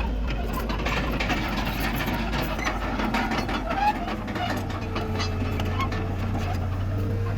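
Diesel engine of heavy earthmoving machinery running steadily, with scattered light clanks. About halfway through, the engine note settles into a steadier, lower hum.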